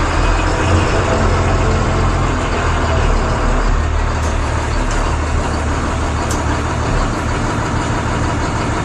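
Loud, steady low rumble of a motor vehicle engine running, under an even wash of noise.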